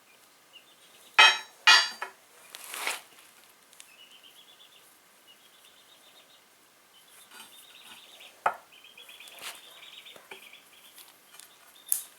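Metal parts of a hydraulic bottle jack being handled while a new rubber O-ring is fitted: two sharp metallic clinks about a second in, a brief scrape, then quieter clicks and taps, and one more sharp clink near the end.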